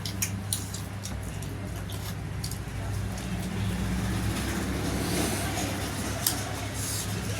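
Eating sounds during a dhido and spicy chicken meal: a few sharp mouth clicks and smacks with chewing noise between them, over a steady low hum.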